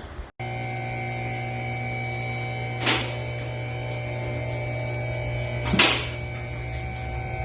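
Steady machine hum with several steady tones, broken twice by a short hiss about three seconds apart.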